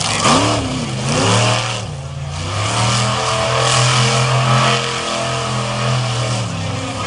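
Monster truck engine revving and dropping in pitch several times over a steady high-pitched roar of exhaust noise.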